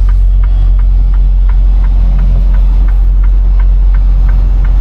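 Semi-truck diesel engine running with a steady low rumble heard from inside the cab, with a light ticking about three times a second over it.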